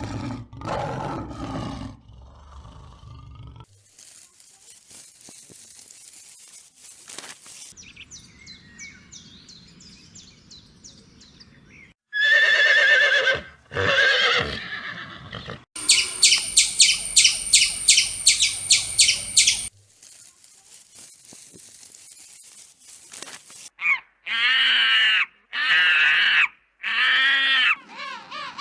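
A run of different farm animal calls, cut one after another: bird chirps, a loud harmonic call, a fast even pulsing trill, and three loud wavering calls near the end.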